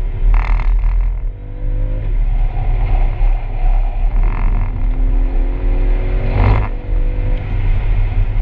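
Aston Martin Vantage's twin-turbo V8 under hard acceleration, heard inside the cabin, rising in pitch twice as it pulls up through the revs. A brief loud burst of noise stands out about six and a half seconds in.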